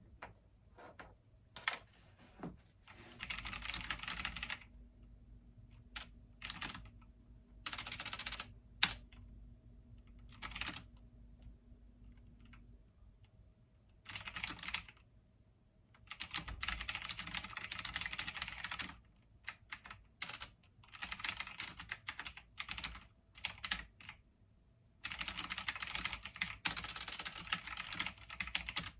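Computer keyboard typing in runs of rapid keystrokes broken by short pauses, with the longest runs about halfway through and near the end.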